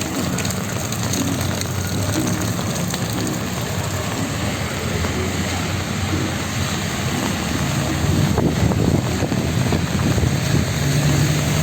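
Street traffic in the rain: vehicle engines running and tyres hissing on wet road, with rain falling. It grows a little louder about eight seconds in and again near the end, as vehicles pass close.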